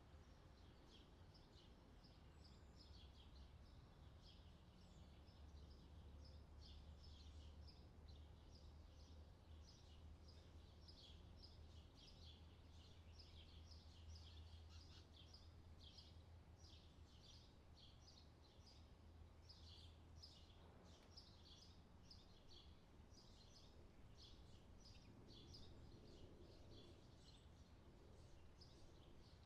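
Faint added outdoor summer ambience track: dense, continuous high chirping over a low steady hum.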